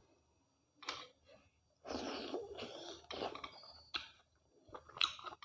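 Close-miked eating sounds while eating mutton curry with rice: mouth noises and clicks, with a longer noisy stretch about two seconds in.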